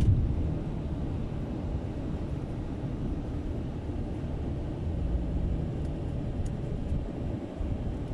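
Steady low vehicle rumble, with a short loud thump right at the start.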